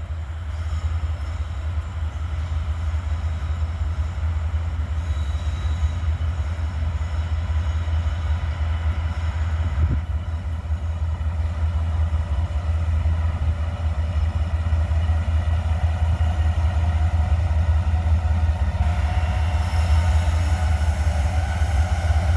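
Diesel locomotives of a loaded coal train pulling in slowly to stop at a red signal: a steady low engine rumble that grows gradually louder, with higher wheel-and-rail noise joining near the end.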